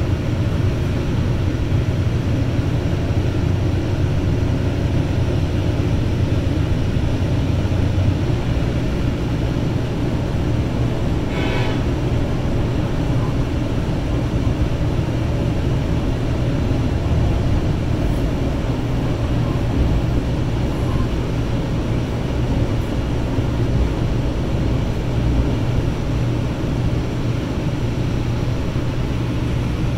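BNSF diesel locomotives hauling a unit coal train, a steady low rumble. A brief higher-pitched sound rises above it about twelve seconds in.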